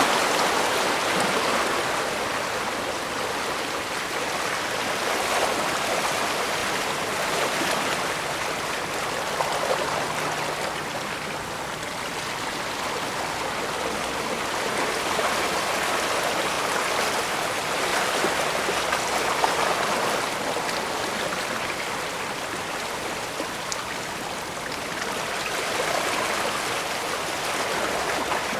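Small waves washing against the bay shore: a steady rush of water that swells and eases every few seconds.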